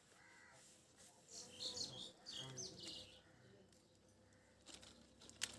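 Parrot chirping: two quick clusters of short, high chirps, the first about a second in and the second a moment later, with a single sharp click near the end.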